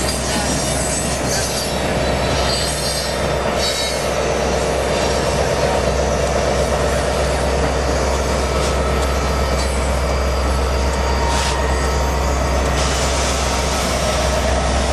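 Coal train rolling past with steel wheels squealing on the rails over a steady low rumble.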